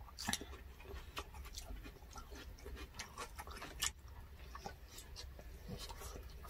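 Close-up mouth sounds of two people eating by hand: chewing with scattered wet clicks and lip smacks, one sharper click a little before four seconds in.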